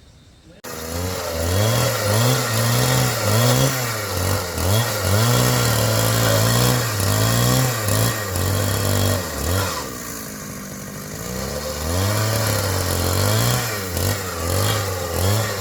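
Handheld power tool motor starting abruptly, then running hard with its pitch rising and falling as it is loaded and eased, dipping around ten seconds in before picking up again.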